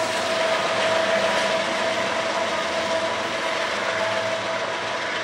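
Union Pacific double-stack container train passing close by: a steady rumble of cars on the rails with a thin steady whine running through it.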